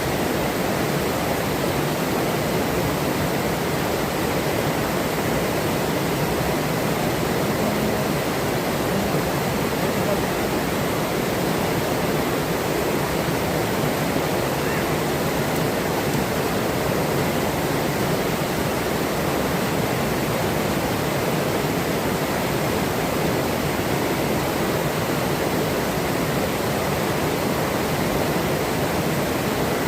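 Forest river water rushing and splashing over rocks: a steady, even flow with no change.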